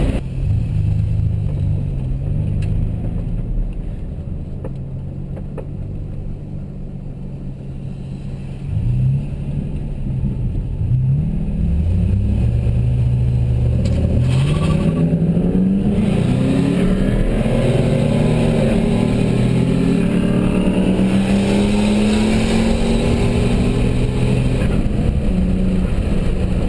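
Modified GM truck engine with aftermarket intake and exhaust, running at a steady idle, then revved briefly about nine seconds in. From about twelve seconds on it runs louder, with repeated rising sweeps in pitch as it is accelerated.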